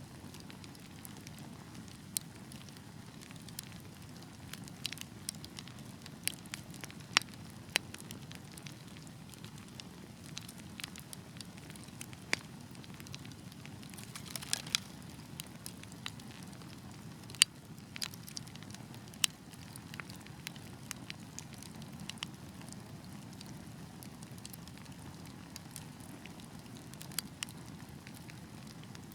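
Wood fire burning, with irregular sharp crackles and pops over a low steady rush of the flames; the pops come thickest around the middle.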